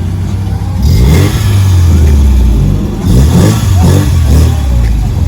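A car engine revving hard: a sharp rise in revs about a second in, then two or three more quick blips near the middle and toward the end.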